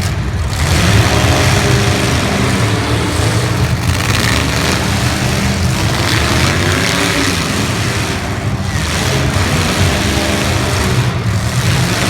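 Demolition derby cars' engines running together loudly, with music underneath.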